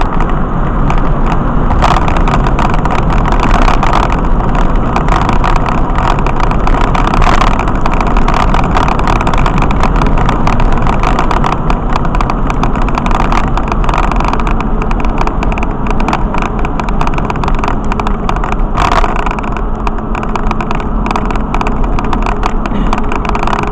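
Steady, loud noise of a moving road vehicle: engine, tyre and wind noise at a constant cruise, without clear revving.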